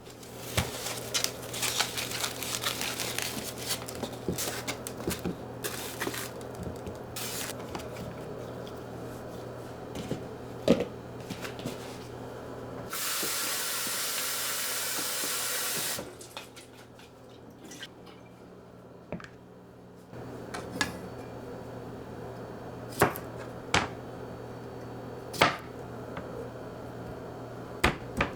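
Water runs for about three seconds, starting and stopping abruptly. Around it are scattered clicks, scrapes and knocks of handling.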